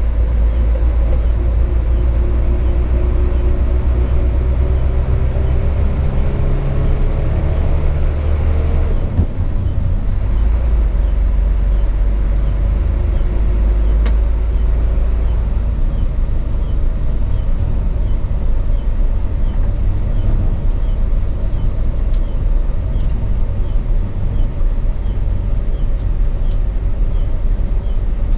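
Cab interior sound of a Hino 500 FM 260 JD ten-wheel truck under way: the six-cylinder diesel engine runs with a deep steady drone over road noise. The engine note rises slowly over the first eight seconds, changes abruptly about nine seconds in, and then runs steady.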